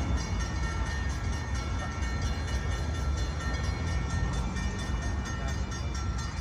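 Low, steady rumble of a distant NJ Transit commuter train approaching, with a rapid, even, high-pitched repeating ring over it.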